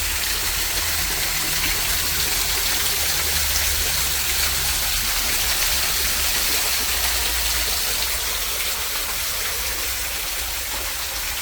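Waterfall pouring steadily, a continuous rushing splash that eases off slightly near the end.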